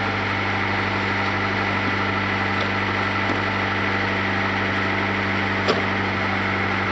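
A steady engine hum at a constant pitch, like an engine idling, with one sharp click near the end.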